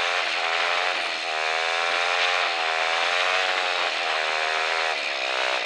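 Royal Enfield Bullet's single-cylinder engine running under way, its pitch rising and falling gently with the throttle, over a steady hiss of wind and road noise.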